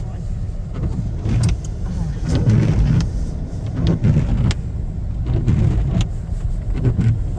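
Car driving, a steady low rumble of engine and road noise, with faint muffled voices now and then.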